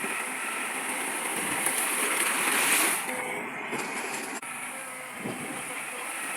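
Heavy earthmoving machinery working: a steady mechanical noise that builds for about three seconds, drops abruptly, then runs on evenly after a brief break.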